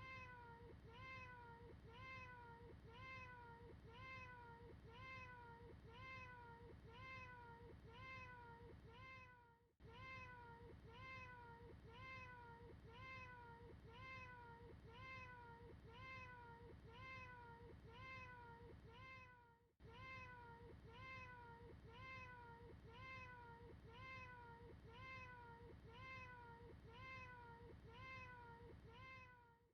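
A cat's meow repeated over and over as a looped clip, about two short meows a second, each one rising and falling in pitch. Faint. The loop fades out briefly and starts again about every ten seconds.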